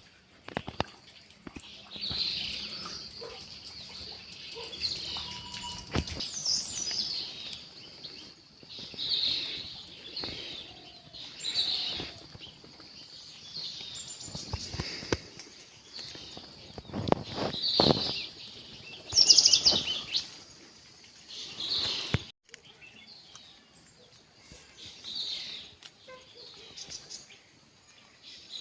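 Wild birds chirping in short, repeated calls every second or two, with a brief rapid trill a little after two-thirds of the way through. A few sharp knocks sound around the middle.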